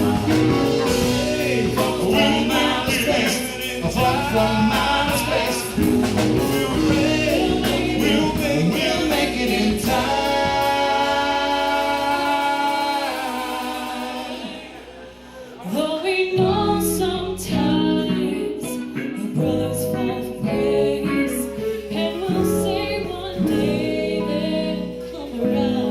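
Live funk band playing with group singing. A long chord is held for a few seconds before the music drops out briefly, then the full band with bass and drums comes back in.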